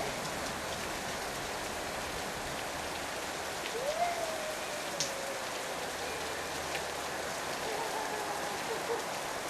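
Heavy downpour from a wet-season storm: a steady dense hiss of rain with scattered drips and splashes. A voice calls out briefly about four seconds in, and again faintly near the end.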